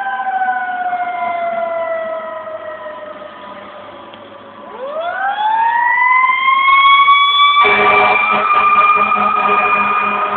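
Fire engine siren winding slowly down in pitch, then winding back up and holding high about halfway through. A loud, low blaring sound joins it about three seconds before the end.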